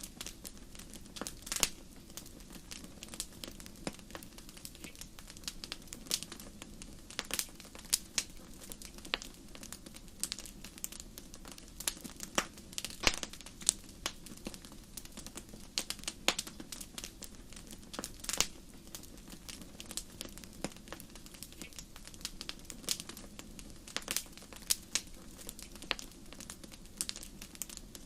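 Wood fire burning in a fireplace: irregular crackles and sharp pops over a low, steady hiss of the flames.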